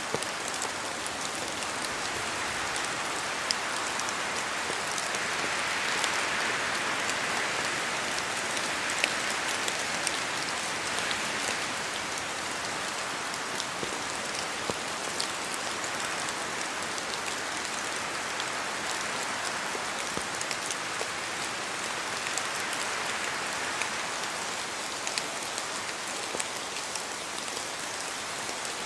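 Steady rain falling on forest foliage, a dense even patter with many separate drops ticking through it, swelling slightly for a few seconds around six seconds in.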